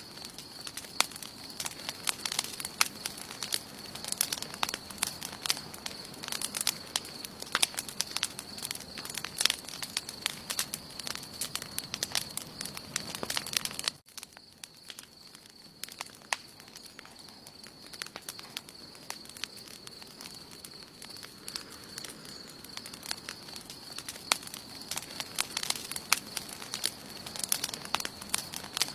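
Wood campfire burning: irregular snaps and crackles over a low rustle of flames, with a steady high tone underneath. About halfway through the sound drops abruptly and the crackling goes on quieter and sparser.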